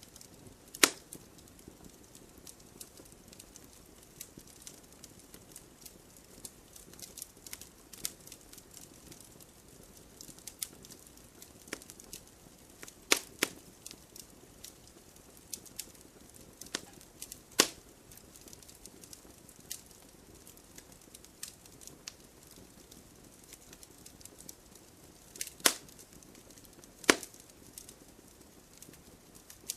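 Wood campfire crackling, with scattered small crackles and a handful of loud, sharp pops from the burning wood, over a faint steady hiss.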